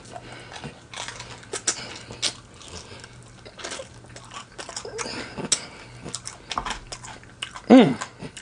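Close-miked chewing and crunching of extra-crispy fried chicken wings, many small crackles, with a short hummed "mm" near the end.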